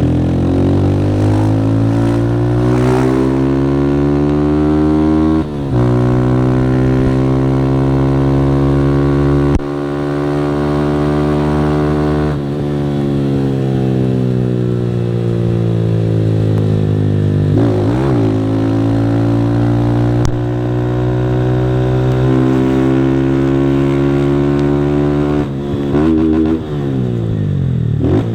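Single-cylinder Honda CG 160 motorcycle engine through a Fortuna Trioval aftermarket exhaust, accelerating hard through the gears. Its pitch rises in each gear and drops briefly at the shifts about 5, 9 and 12 seconds in. It then slows gradually, and near the end there are quick throttle blips.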